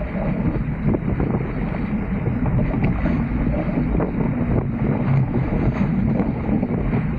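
Wind buffeting the microphone over water rushing along the hulls of a Dart 18 sailing catamaran under sail: a steady, heavy rush with a few faint ticks.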